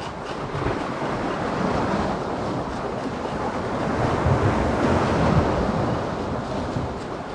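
Sea waves washing in and breaking on the shore, with wind buffeting the microphone; one surge swells louder about halfway through.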